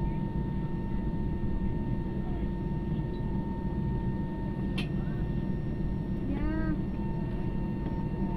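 Steady low rumble with a constant hum tone, broken by a sharp click just before five seconds in and a short wavering high-pitched call at about six and a half seconds.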